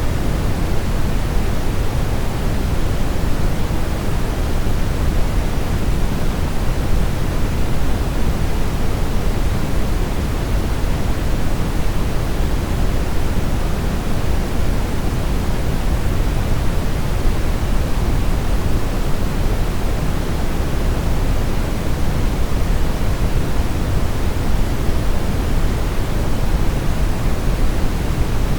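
Brown noise: a steady, unchanging rush of random noise, deepest and strongest in the low end and fading toward the highs.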